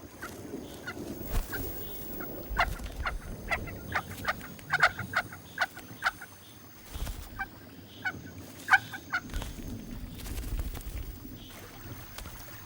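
Picathartes at the mud nest giving many short, sharp chirping calls in irregular clusters, the chicks begging to be fed, over a faint low rumble.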